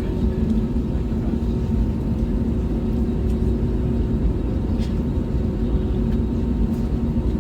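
Steady engine rumble heard from inside a vehicle's cabin, with a low, even hum running underneath.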